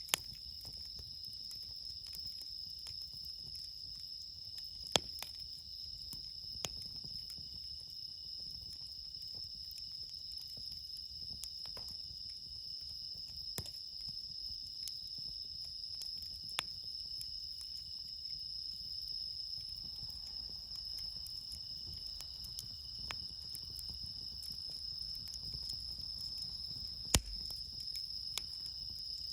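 Night insects, bell crickets among them, singing in a steady, unbroken high-pitched chorus. A wood campfire gives a few sharp pops, the loudest about five seconds in and near the end.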